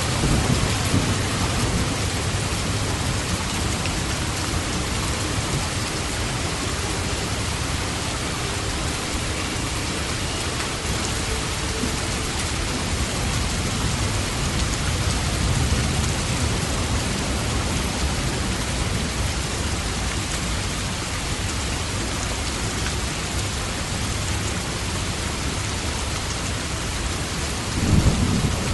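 Steady rain falling with thunder rumbling low under it, swelling briefly at the start and again with a louder clap near the end.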